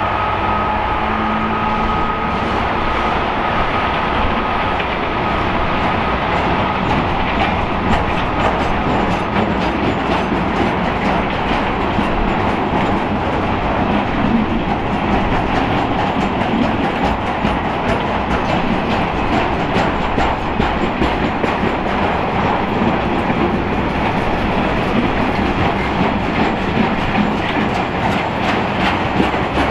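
A train passing close by, its wheels clattering over the rail joints in a dense, loud, continuous run. A steady tone is heard at the start and fades within the first several seconds.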